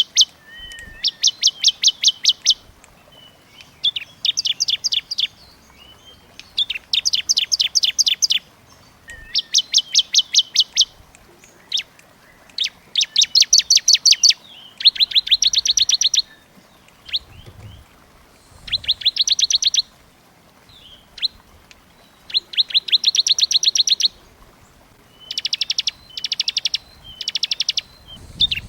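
A small songbird singing dense, rapid trills: fast runs of sharp, high chip notes, about ten a second, each run lasting a second or so and repeated after short pauses.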